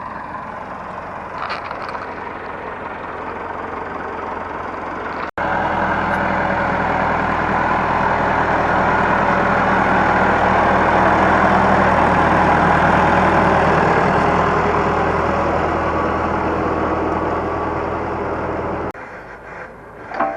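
An engine running at a steady speed, with a steady low drone. It starts abruptly about five seconds in and cuts off suddenly near the end.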